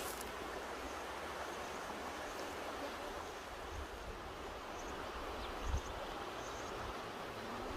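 Mountain river flowing, a steady rushing of water. A brief low thump breaks in about three-quarters of the way through.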